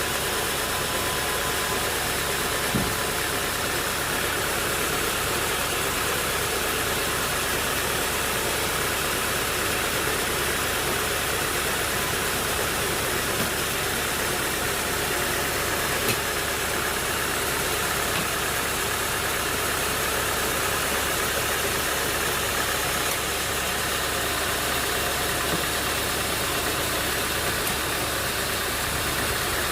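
Sawmill machinery running steadily, an engine-driven hum with a dense even noise over it, with two short knocks, one about three seconds in and one around the middle.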